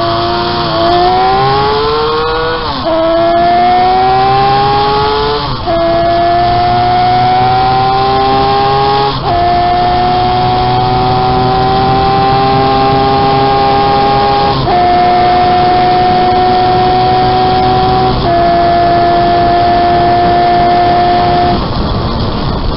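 Home-built three-cylinder engine of a 195cc Gillette special motorcycle, heard from on board, being ridden hard: the engine note climbs, breaks off briefly and climbs again through several gear changes, then holds steady at high revs. Near the end it drops away as the throttle closes.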